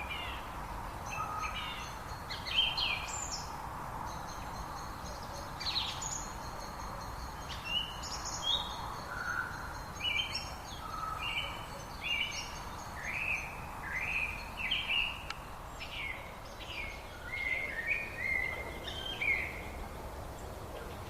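Birds singing: a busy run of short chirps and quick falling whistles over a steady background hiss, with a faint steady high tone behind them.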